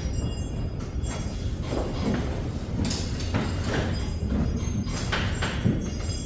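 Irregular knocks and scrapes of metal rails and clips being worked into place on a pickup truck bed, over a steady low rumble.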